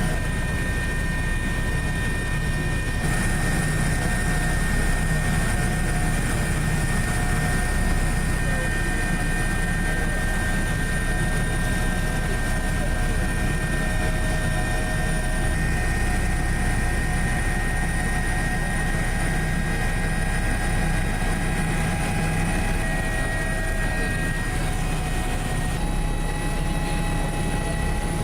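Aircraft engines running, a steady drone with a low hum and several high whining tones; the mix shifts slightly about three seconds in and again near the end.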